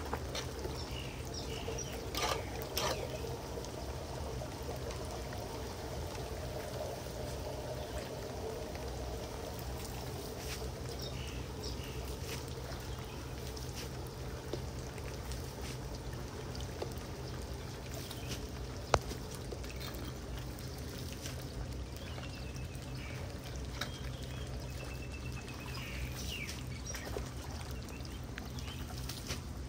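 Floodwater pouring and trickling into a street storm drain, a steady rush of water. One sharp click about two-thirds of the way through, and a few faint chirps near the end.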